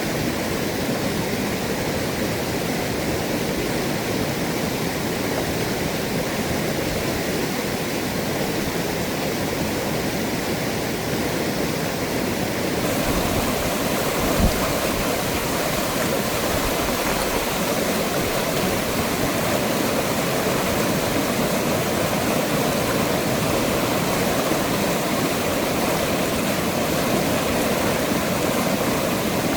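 Mountain valley stream running high after heavy rain: steady rushing water, with one short thump about halfway through.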